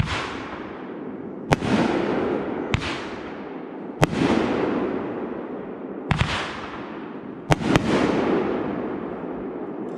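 Aerial fireworks bursting: about seven sharp bangs at irregular intervals, two in quick succession near the end, each followed by a noisy tail that fades over a second or two.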